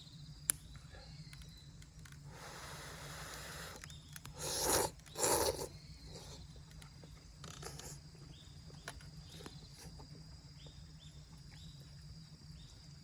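A person slurping udon noodles in miso broth: two loud slurps about four and a half and five seconds in, after a softer breathy stretch. A sharp click sounds near the start.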